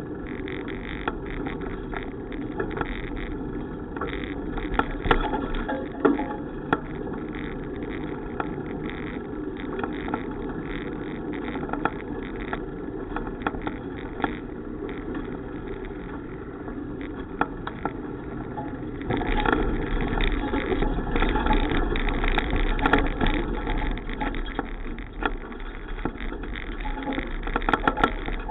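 Wind and road noise from a moving bicycle, with frequent small clicks and rattles. The noise gets louder about two-thirds of the way through.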